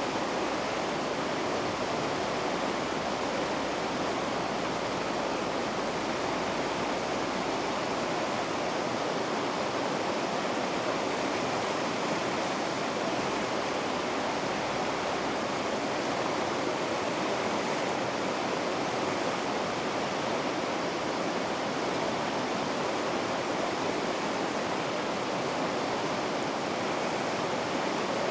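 River rapids rushing: a steady, unbroken roar of white water.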